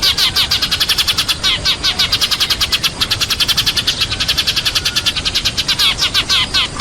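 Sparrows chirping in a rapid, unbroken run of short chirps, about eight to ten a second and faster through the middle, the flock-gathering calls used as a lure recording.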